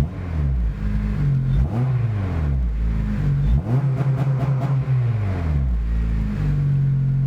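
Honda Civic CSX Type S's four-cylinder engine, breathing through a J's Racing 70RR exhaust with a ceramic header, revved from idle about three times, a bit loud, the pitch rising and falling with each rev, then settling back to a steady idle near the end.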